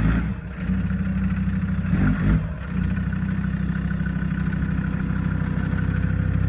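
Land Rover engine idling steadily, with two brief changes in the sound, one at the very start and one about two seconds in.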